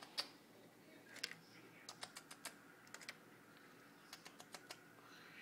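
Faint, irregular light clicks and taps, several in quick little clusters, against near silence.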